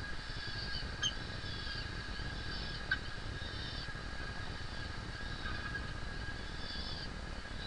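Falcons calling at the nest: repeated thin, drawn-out high calls over a steady low rumble, with a couple of faint clicks about one and three seconds in.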